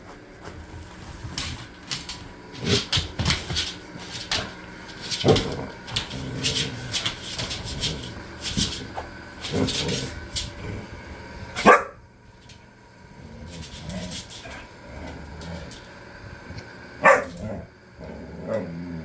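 A dog barking in short, irregular bouts at a ceramic cat figurine. Two of the barks, about halfway through and near the end, are the loudest.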